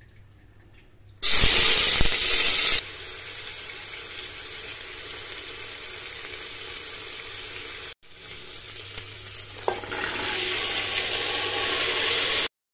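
Hot oil in a steel pot bursts into a loud sizzle about a second in as food hits it, then settles to a steady frying sizzle while sliced onions are stirred with a wooden spatula. After a short break the sizzle grows louder again with boiled chickpeas in the pot, and it cuts off just before the end.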